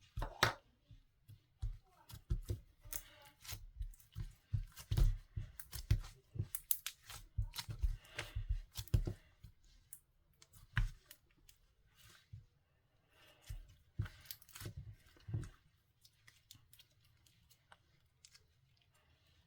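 Clear, colourless slime being squeezed and stretched by hand, making irregular sticky clicks, pops and crackles that thin out after about sixteen seconds.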